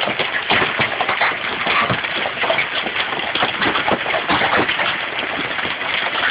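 Hail coming down hard: a dense, continuous clatter of countless small stones striking.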